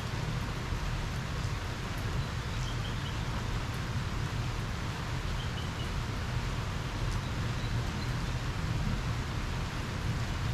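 Steady rain falling during a thunderstorm, with a low rumble of wind on the microphone. A few faint, short high chirps come through at intervals.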